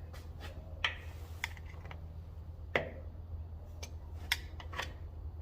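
Scattered light clicks and taps of hand tools on metal, about seven in all with the loudest near the middle, as the old starter switch on a 1953 Ford Jubilee tractor is worked loose, over a steady low hum.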